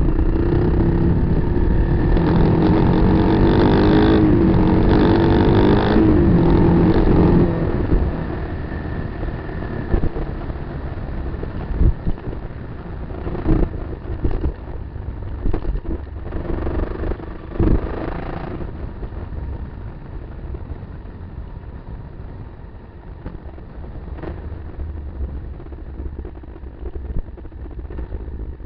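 Kawasaki KLR 250's single-cylinder four-stroke engine pulling hard, its pitch rising and falling for the first seven seconds or so. Then it drops to quieter running, with several sharp knocks from around twelve to eighteen seconds in.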